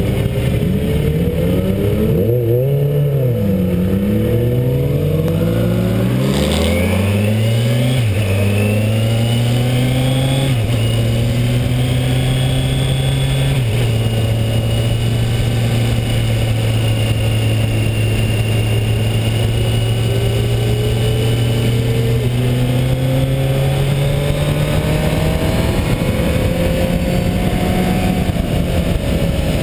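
Kawasaki Ninja 1000's inline-four engine accelerating hard, its revs climbing and dropping with a quick series of upshifts over the first dozen or so seconds, then holding a steady pitch at speed and slowly rising again near the end, with wind rushing past.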